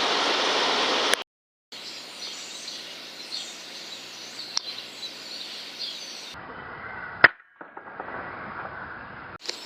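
A steady rushing noise for about a second, then faint small-bird chirping. About seven seconds in comes a single sharp crack: the FX Impact .177 PCP air rifle firing.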